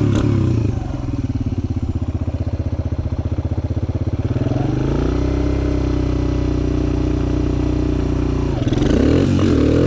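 Suzuki DR-Z125 dirt bike's air-cooled single-cylinder four-stroke, big-bored to 150, chugging at idle, then revved up about four and a half seconds in and held at steady revs for a launch. Near the end the note breaks into a rougher, changing sound as the bike pulls away.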